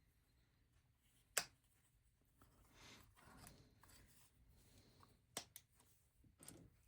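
Near silence broken by a few sharp clicks of plastic LEGO bricks being handled: one about a second and a half in, a quick pair near five and a half seconds, and another near the end.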